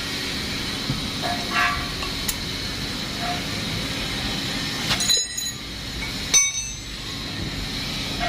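Metal tools and engine parts clinking a few times during an engine teardown, the two loudest clinks about five and six and a half seconds in, over a steady hum with a high whine.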